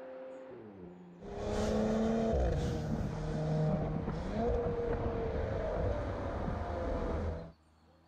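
Porsche Macan S's 3.0-litre V6 engine and exhaust under way: a steady hum that drops in pitch, then about a second in a much louder close-up engine note under acceleration, its pitch rising and falling with the revs, cutting off abruptly near the end.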